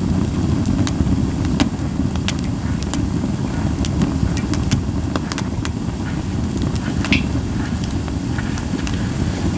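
Japanese white pine campfire crackling, with scattered sharp pops about once or twice a second and little hissing, over a steady low rumble.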